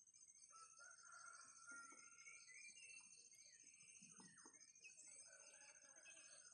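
Faint calls of free-range village chickens, short and scattered, over a steady high-pitched buzz.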